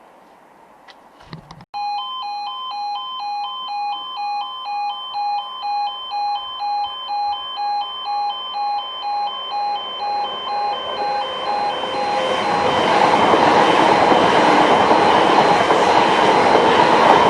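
Level crossing warning alarm switching on about two seconds in: an electronic two-tone yodel alternating high and low about twice a second, warning of an approaching train. From about eleven seconds in, the noise of a train approaching and passing over the crossing builds and drowns the alarm.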